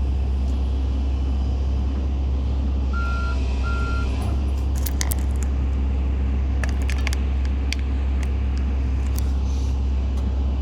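Excavator's diesel engine running with a steady deep hum, with two short high beeps about three seconds in and a scatter of sharp clicks and clinks through the middle.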